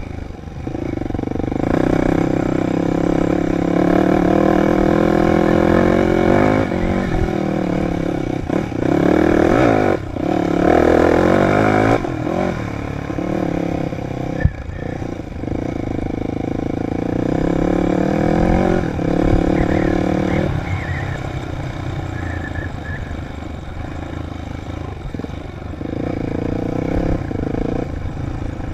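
Dirt bike engine running under load as it is ridden, its pitch repeatedly climbing and falling back with throttle and gear changes. There is a sharp knock about halfway through, and the engine settles to a steadier pitch for the last third.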